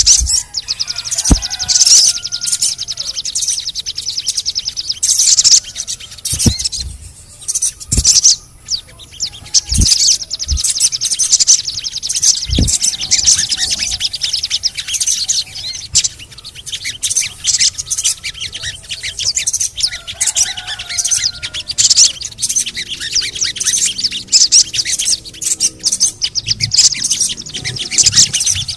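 Sogon bird singing a fast, unbroken stream of high chirps and chattering trills, with a few sharp clicks in the first half.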